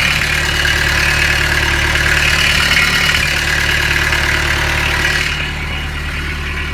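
Kubota B2710's three-cylinder diesel engine idling steadily while it warms up after a cold start, with an exhaust leak that the owner points out. A higher noise over the idle eases off about five seconds in.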